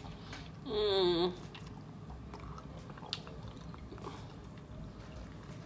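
A person chewing a mouthful of birria taco, with soft, scattered wet mouth clicks. About a second in there is a short hum from the eater, with a wavering pitch.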